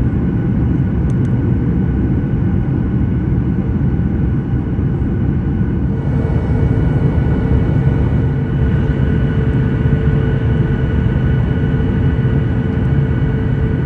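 Steady drone of a jet airliner's cabin in flight: a loud, even low rumble with faint steady whining tones above it.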